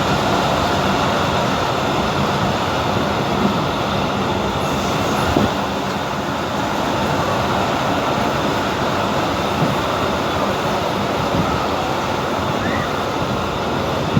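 Passenger train running along the track, heard from inside a carriage: a steady rumble with a few short knocks from the wheels and car.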